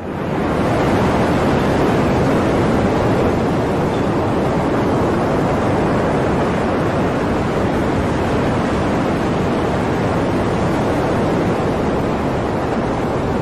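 Loud, steady rushing of hurricane wind and surf, starting and cutting off abruptly.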